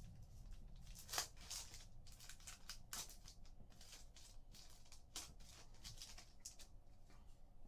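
Faint rustling and clicking of trading cards and packs being handled: a run of short, dry rustles, loudest a little over a second in and again about three seconds in.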